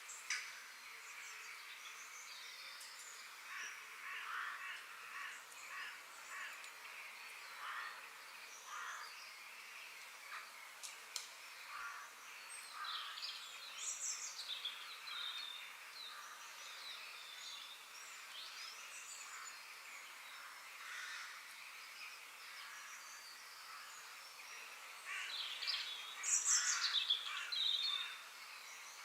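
Forest ambience of several birds calling and chirping over a faint steady hiss, with short repeated calls and quick downward-sliding chirps; the calls are loudest in a busy burst near the end.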